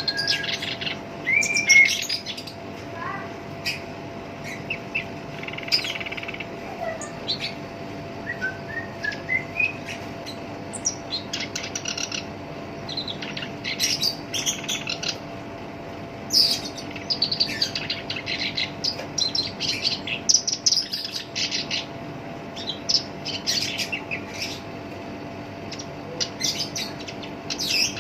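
Black-browed reed warbler singing a long, continuous run of rapid, harsh, scratchy chattering phrases, with a few clear whistled gliding notes in the first ten seconds.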